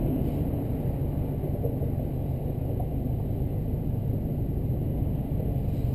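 Subaru WRX's turbocharged flat-four engine and exhaust running with a steady low rumble, no revving.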